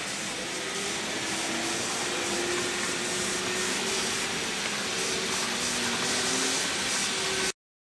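N-scale model locomotive running on its track: a steady whirring hiss with a faint wavering hum from the small motor, cutting off abruptly near the end.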